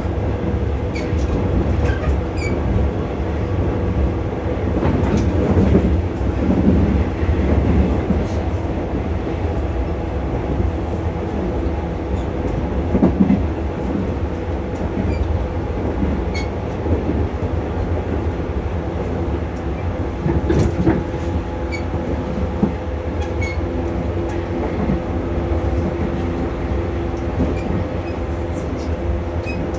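Interior running sound of a JR West 115 series resistance-controlled electric train at a steady speed: a constant low rumble with a steady hum of even pitch, and scattered light clicks from the wheels and track.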